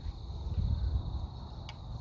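Crickets chirring in a steady high tone, over a low rumbling noise that swells about half a second in, with one sharp click near the end.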